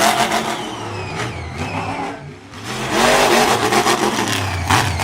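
Monster truck engine revving hard, easing off about two seconds in, then revving up again.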